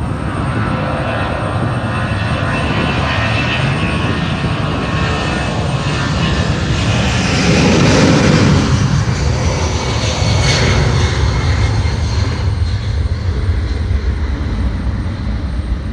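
Airliner's engines running as the plane passes: a loud, steady rush that swells to its loudest about eight seconds in, rises again briefly a couple of seconds later, then eases off near the end.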